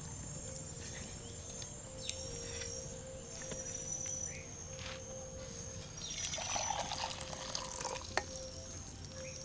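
Insects chirring steadily in the evening, with a few sharp crackles from a campfire and a stretch of splashing liquid, hot water being poured for tea, about six seconds in.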